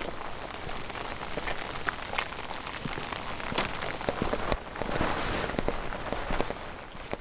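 Steady rain falling, with many irregular sharp drops tapping close by.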